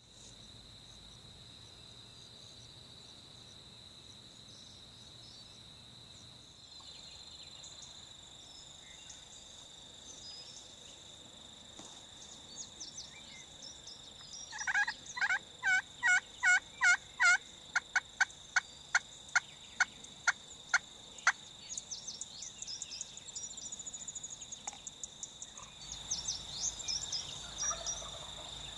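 A long series of wild turkey calls, about two sharp notes a second, starting about halfway through, loudest at first and then fading over several seconds, followed by scattered shorter chirps. A steady high-pitched hum runs underneath.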